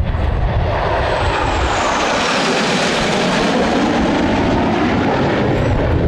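Fixed-wing aircraft flying past at an airshow: a loud, steady rushing engine noise, with a high whine that falls in pitch over the first couple of seconds.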